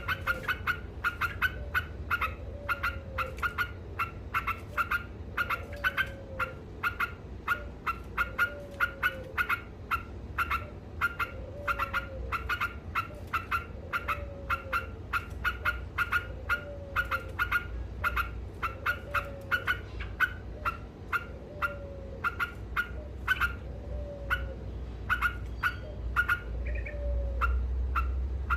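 Yellow-vented bulbul (trucuk) calling in a fast, continuous chatter of short, sharp notes, about three or four a second. A lower falling call repeats about every one and a half seconds beneath it, over a steady low hum.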